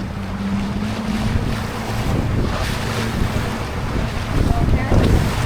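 Small tour boat's engine running steadily, with water rushing past the hull and wind buffeting the microphone.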